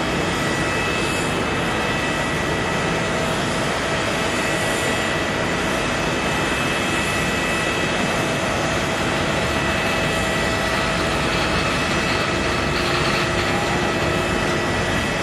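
Jet airliner engines running steadily: a constant rush with a few thin steady whining tones over it, neither rising nor fading.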